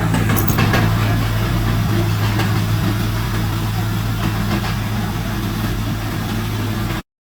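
Heavy diesel engine of earthmoving equipment running steadily, a low hum under a noisy clatter. It cuts off suddenly about seven seconds in.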